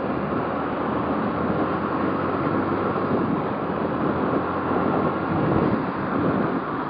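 Motorcycle running steadily on the road, with wind rushing over the microphone.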